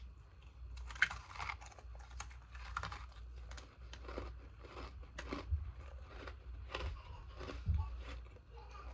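Close-up crunching and chewing of frozen ice pieces from the freezer: a string of irregular, crackly bites and chews.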